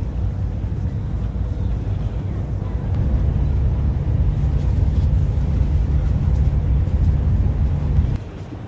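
Steady low rumble of a moving vehicle. It grows louder about three seconds in and drops off abruptly just before the end.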